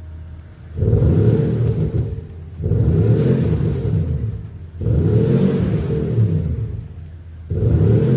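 BMW X5 with an Xhaust electronic active exhaust sound system revved four times, each rev about two seconds long, the pitch rising and falling, with a deep V8-style exhaust note played through the system over the engine.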